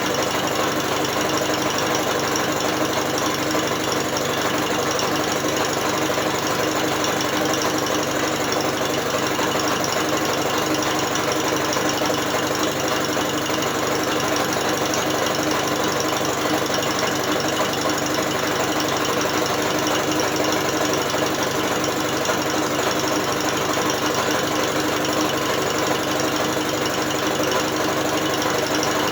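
Electric drill steadily spinning a British Seagull outboard motor, its engine turned over mechanically without firing. The drill's motor and the outboard's turning parts make a constant, even running sound with no pauses or changes in speed.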